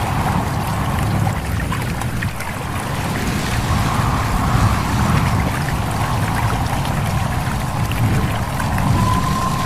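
A stream running and trickling, with a steady low rumble of wind. A thin, steady whistling tone comes in near the end.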